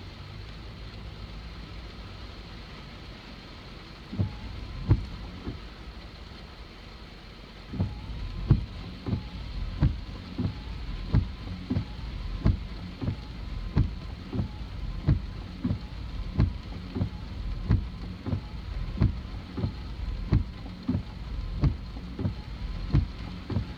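Hard rain on a car under a steady hiss, with a faint engine hum at first. Windshield wipers thump at the end of each sweep: twice about four seconds in, then regularly, about one and a half times a second, from about eight seconds in.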